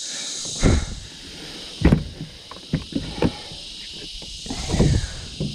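Several irregular thumps and knocks, the sound of handling gear and a freshly landed fish on a boat, over a steady high hiss. The loudest knocks come about two seconds in and again near the end.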